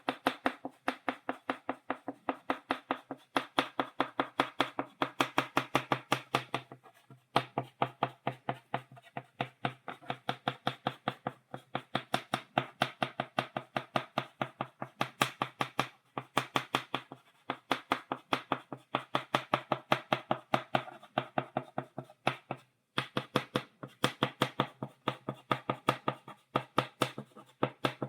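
Chalk stippling dots on a blackboard: rapid sharp taps of the chalk tip on the board, several a second, each with a hollow ring from the board, broken by short pauses three times.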